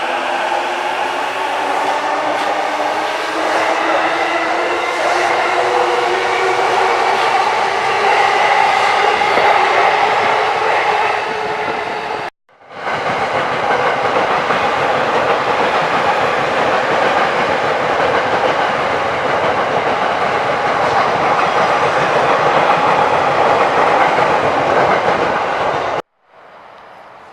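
JR commuter electric train at a station platform. In the first seconds the motor whine rises in pitch as the train pulls away, followed by loud, steady running noise with wheels clacking over the rail joints. The sound cuts off abruptly about twelve seconds in, then another stretch of loud train running noise follows, and near the end it drops suddenly to a quieter background.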